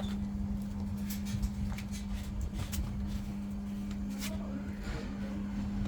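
Samsung ecobubble washing machine spinning: a steady motor hum over a low rumble, with scattered light clicks and knocks.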